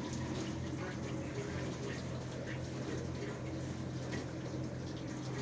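Fagor FI-80 dishwasher running: a steady low pump hum under the even swish and splash of water inside the machine.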